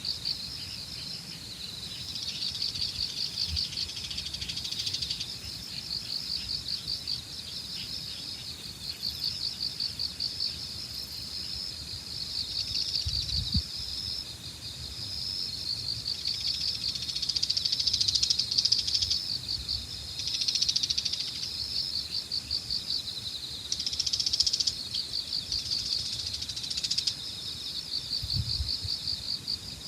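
Autumn evening insects chirping in a continuous high, rapidly pulsing chorus, several callers overlapping and swelling in turn. Beneath it a low wind rumble on the microphone with a couple of brief bumps.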